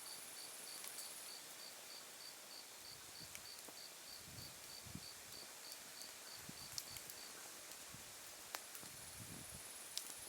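Autumn night insects chirping: a regular high chirp about three times a second that stops about seven seconds in, over a steady high trill. A few sharp pops from wood crackling in an open campfire, with a faint low rumble of the flames.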